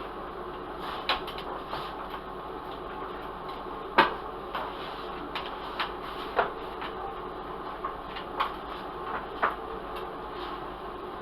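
Light knocks and clicks of things being handled in a kitchen, about a dozen scattered through, the sharpest about four seconds in, over a steady background hum.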